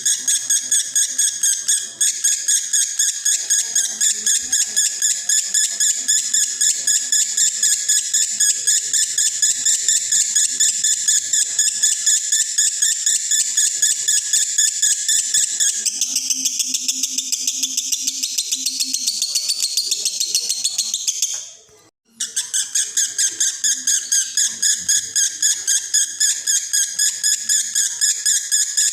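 Male lovebird in breeding condition singing a long, continuous konslet-style chatter: fast, evenly repeated high chirps with no pause. The pattern shifts about two-thirds in, cuts out for a moment, then the same rapid chatter resumes.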